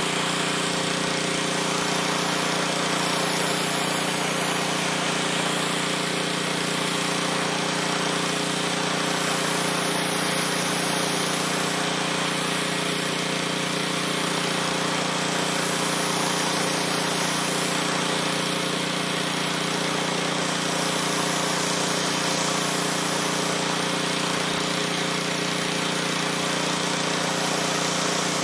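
Pressure washer running steadily, its water jet blasting brick, the spray noise swelling and easing every few seconds as the wand sweeps.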